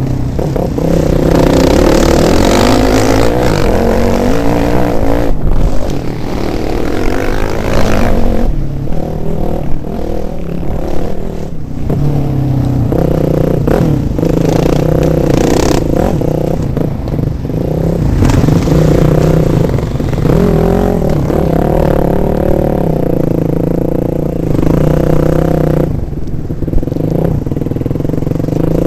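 Dirt bike engine revving up and down again and again as the bike is ridden hard along a rough trail, with clattering and scraping over the ground.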